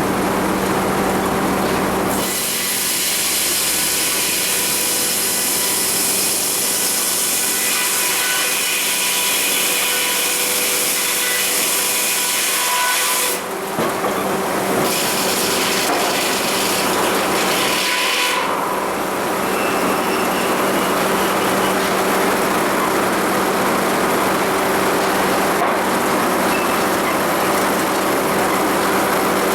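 Sawmill machinery running with a steady hum while the saw cuts through a cedar log: one long cut starting about two seconds in and lasting about eleven seconds, then after a short break a second cut of about three seconds.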